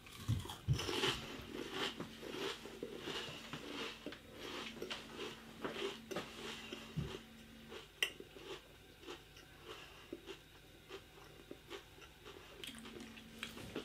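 A person chewing Pringles crisps close to the microphone: quick, irregular crunches that are densest in the first half and thin out toward the end.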